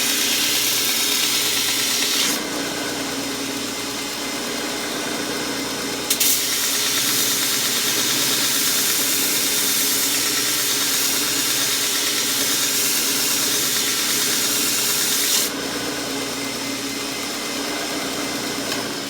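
Homemade 2x72-inch belt sander running, with a steel lawn mower blade ground against the belt: a grinding hiss over a steady motor hum. The grinding eases about two seconds in, comes back strongly with a click around six seconds, and eases off again near the end.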